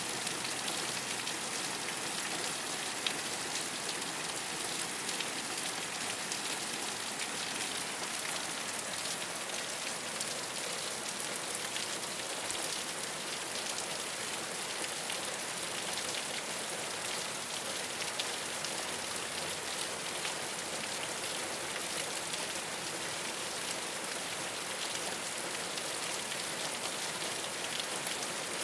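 Steady rain falling on a rooftop, a constant hiss dotted with many small drop impacts.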